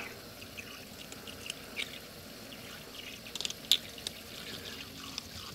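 Water trickling in a sink, with a few light clicks and taps scattered through it.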